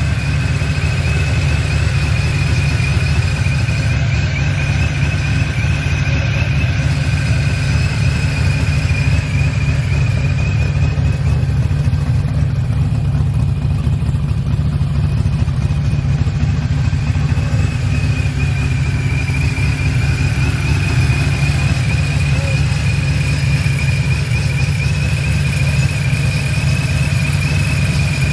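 Car engine running hard and steady, with a high, slightly wavering squeal held over it throughout.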